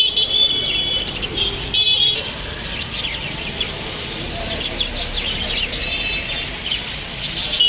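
Many small caged birds chirping and twittering in quick, overlapping calls over steady street traffic noise, with a high steady tone near the start and again near the end.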